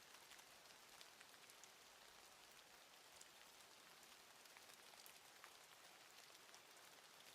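Very faint patter of falling precipitation: a soft even hiss with scattered light ticks.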